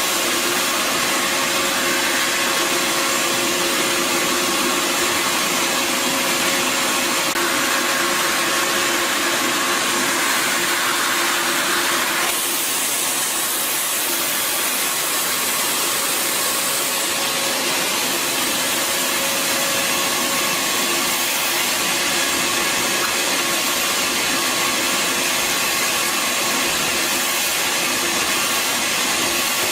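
Bissell Garage Pro 12-amp wet/dry vacuum running steadily with a motor whine and rushing air through the hose. About twelve seconds in, the rush of air changes and gets slightly quieter.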